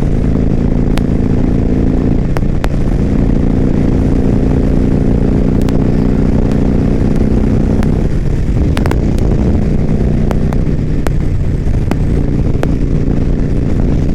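Harley-Davidson V-twin motorcycle engine running at cruising speed, heard from the rider's position. The engine note shifts pitch about two seconds in and again about eight seconds in, with a few sharp ticks over it.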